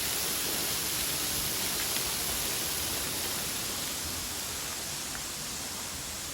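Steady rushing of a waterfall running full after heavy rain, easing slightly toward the end.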